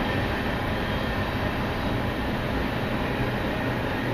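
Steady train rumble with a low, even hum that does not change.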